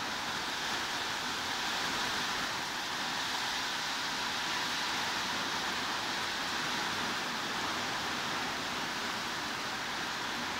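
Steady heavy rain falling, an even hiss with no single drops standing out.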